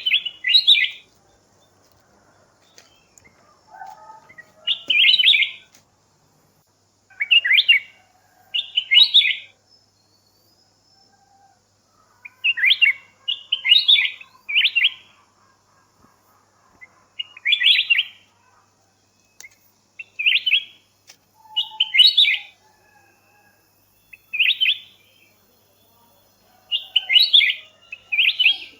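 A songbird calling over and over, short chirpy phrases about half a second long repeating every second or two, sometimes in quick pairs, with a few fainter, lower calls between them.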